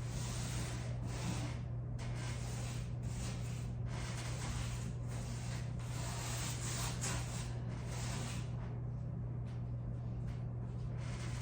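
Paintbrush swishing over a surface in repeated back-and-forth strokes, about one a second, over a steady low hum.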